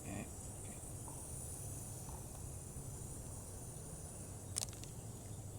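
Faint steady background: an even high-pitched hiss over a low hum, with one short click about four and a half seconds in.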